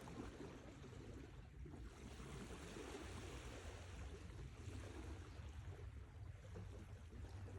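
Sea waves: a faint, steady wash of surf over a low rumble, easing slightly about a second and a half in.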